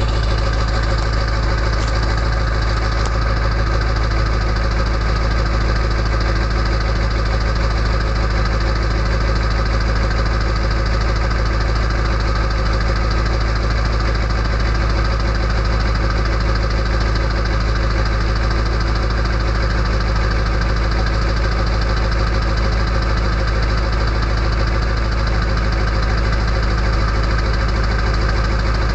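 Straight-piped Ford 7.3-litre Power Stroke V8 turbodiesel of an early 1999 F-250 idling steadily, still cold from a near-freezing start.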